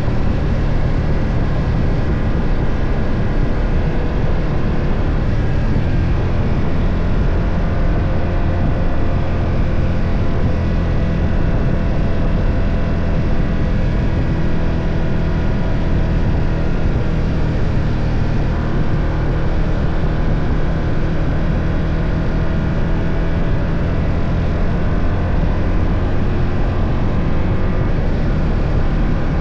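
BMW F 800 GS parallel-twin engine running at a steady note while the motorcycle is ridden, over a constant rush of road and air noise.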